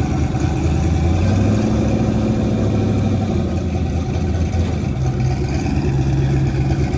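Drag car's V8 engine idling steadily, its low note drifting slightly in pitch.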